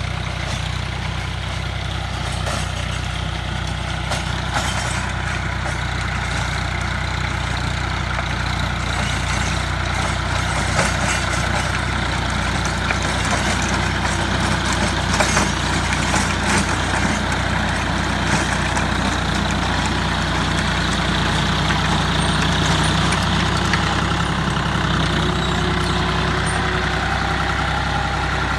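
Tractor diesel engine running steadily while driving a rotary tiller, with a few sharp clicks along the way.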